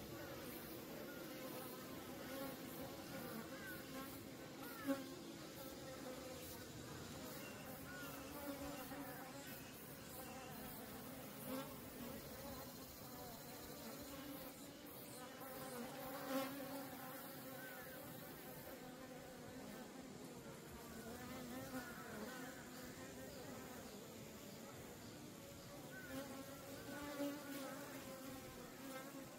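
Many native Korean honeybees buzzing steadily at their colony, a wavering hum with several brief louder moments as bees come close.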